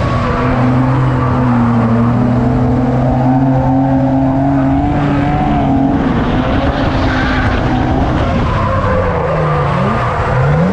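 Drift car engine held at a steady high rev through a long slide, with tyres skidding around the middle; near the end the revs drop away and climb again.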